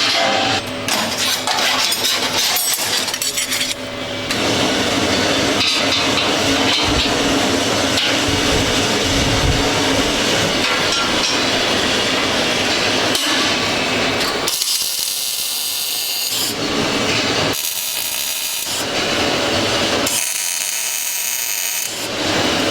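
Continuous workshop tool noise, with three separate bursts of high-pitched hiss in the last third.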